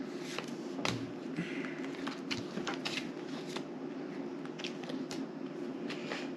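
Playing cards being shuffled and handled, with irregular sharp snaps and flicks of the cards, over a steady low hum.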